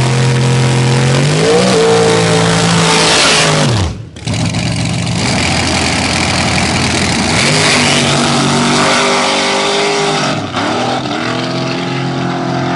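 Nitrous big-block Chevy V8 of a drag-race Camaro, held at a steady rpm, then rising and dropping off about four seconds in. After a short break it runs at full throttle, its pitch climbing twice more as it pulls away.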